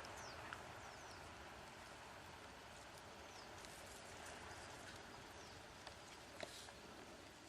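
Near silence: faint outdoor ambience with a few faint, short, high chirps early on and a soft click about six seconds in.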